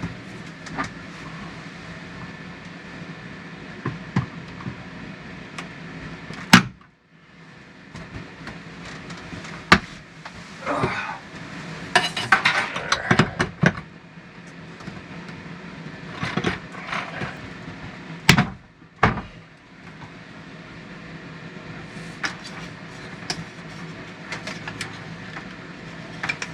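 Clicks, knocks and short rattles of the new RV shower head fittings being handled and fitted, with a sharp click about 18 seconds in, over a steady low hum.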